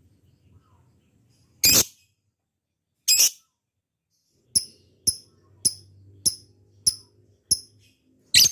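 Lovebird calling: two loud shrill calls in the first half, then a run of short sharp chirps about every half second, ending on another loud call.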